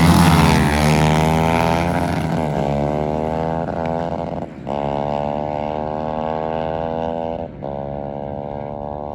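A drag-racing motorcycle accelerating hard and pulling away, shifting up with short breaks about halfway through and again near the end, its engine note climbing in each gear as it fades into the distance.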